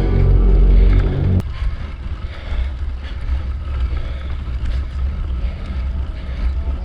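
Background music that cuts off suddenly about a second and a half in, followed by a steady low rumble of wind on the microphone and rolling noise from a mountain bike being ridden, with a few faint clicks.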